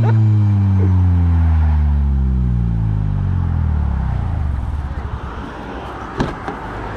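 Car engine falling back from a hard rev: the pitch sinks steadily over about four seconds and settles into a low idle. A short sharp click about six seconds in.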